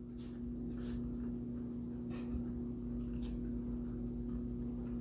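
Close-up mouth sounds of a person chewing sticky, saucy chicken feet: a few short wet smacks and clicks at irregular moments, over a steady low hum.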